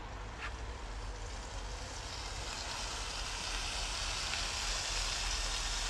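Flour-coated squid rings sizzling as they fry in hot oil in a skillet, the sizzle building from about two seconds in as more pieces go into the oil. A low rumble runs underneath.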